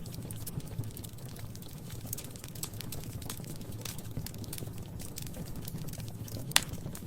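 Wood fire in a fireplace crackling: irregular small snaps and ticks over a steady low rumble of the flames, with one loud sharp pop near the end.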